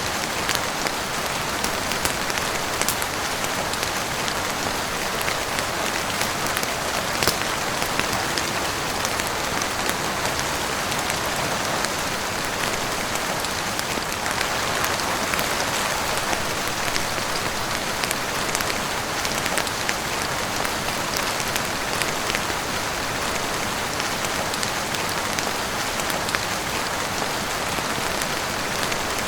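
Steady heavy rain falling on a roof: an even hiss with scattered sharp ticks.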